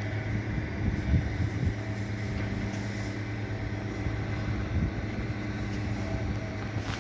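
Steady low engine drone holding one pitch, under a constant rushing noise.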